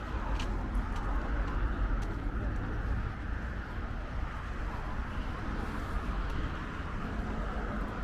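Steady street traffic noise, a constant low rumble with a few faint clicks and indistinct voices in the background.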